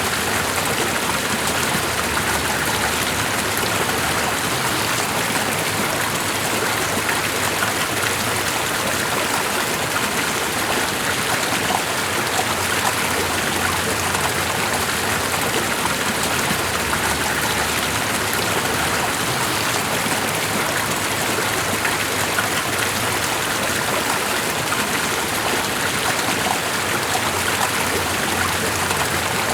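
Steady, unbroken rush of water. It holds an even level with no distinct drops, splashes or changes.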